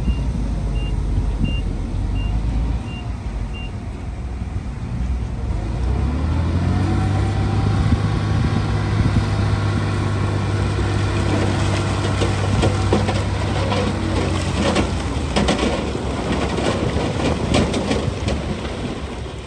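Diesel engine of heavy earthmoving equipment. A reversing alarm beeps steadily for the first few seconds, then the engine revs up about six seconds in and works under steady load. Through the second half comes repeated clattering and clanking, like rock and dirt being moved.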